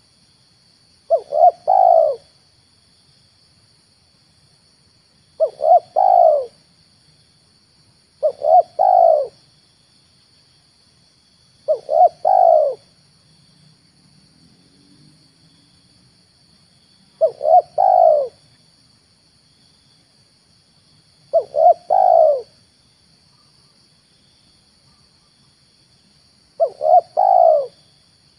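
Spotted dove cooing: seven phrases, each two short notes followed by a longer drawn-out coo, at gaps of three to five seconds. It is a lure call for drawing in spotted doves.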